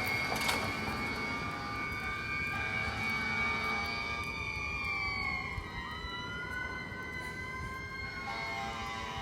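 Fire engine siren wailing, several steady tones whose pitch falls slowly about halfway through and then climbs again, over a low rumble from the truck. A brief sharp knock about half a second in.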